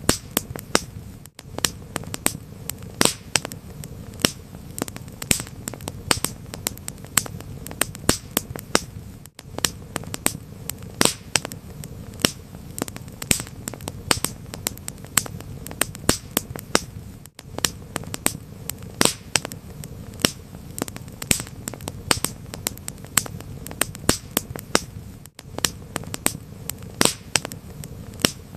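Wood fire crackling: irregular sharp pops and snaps, several a second, over a low steady rumble of burning. The sound dips out briefly about every eight seconds.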